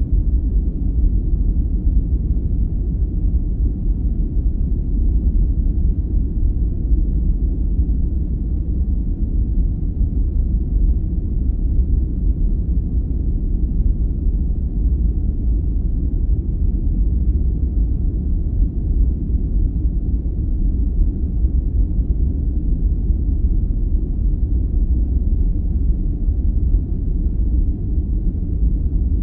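Steady, deep rumbling noise of a sleep-aid 'white noise' track, most of it low in pitch like brown noise, with no changes or separate events.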